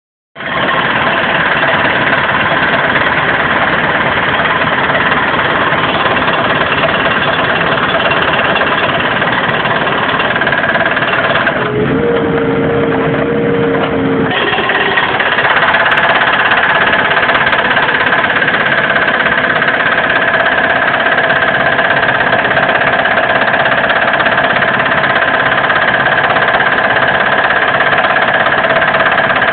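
Hydraulic concrete breaker on a Case 580M backhoe hammering concrete: a dense, continuous clatter over the running diesel engine. About twelve seconds in, the hammering stops for a couple of seconds, leaving a steady hum, then starts again.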